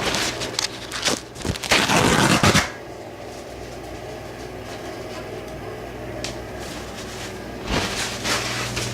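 Vintage Leigh bathroom exhaust fan running with a steady motor hum. A loud rushing, rattling burst comes over it for about a second, a second and a half in, and a shorter one near the end.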